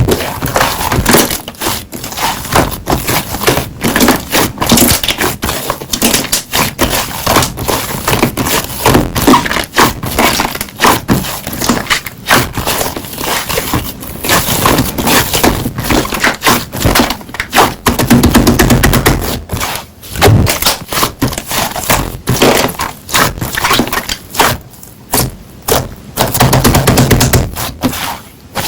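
Hands squeezing and poking slime, a dense run of small sharp pops and crackles that keeps on throughout.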